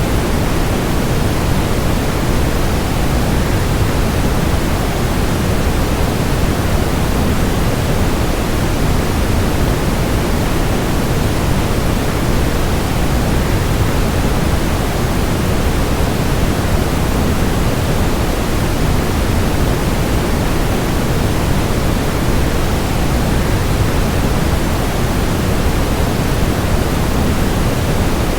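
Waterfall white noise: a steady, unbroken rush of falling water, heaviest in the low end, with no changes or separate sounds.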